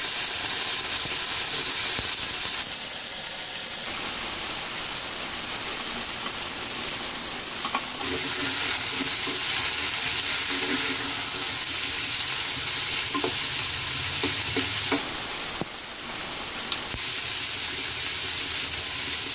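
Mixed chopped vegetables (onion, broccoli, potato, carrot, capsicum, cauliflower, tomato) sizzling steadily in hot refined oil in a kadai as they are stirred. A few light knocks come midway and again later.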